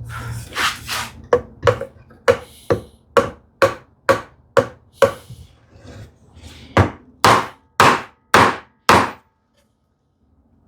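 Hammer tapping a glued wooden drawer joint to seat and align it: about fifteen sharp taps on wood at roughly two a second. The taps pause briefly past the middle, and the last five are the hardest before they stop.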